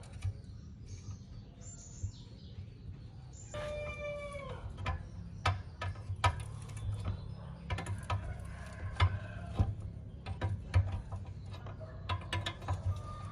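A rooster crows once, its call falling in pitch, about four seconds in. After it comes a run of irregular light clicks and taps over a steady low hum.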